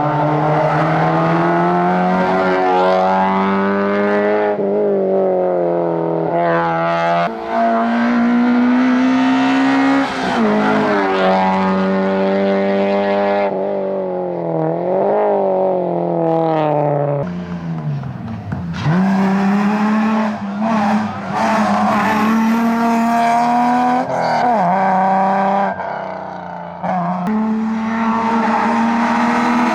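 Rally car on a tarmac stage driven flat out, its engine revving hard and climbing in pitch, then dropping at each gear change or lift, with a deep dip under braking a little past halfway. Tyres squeal at times.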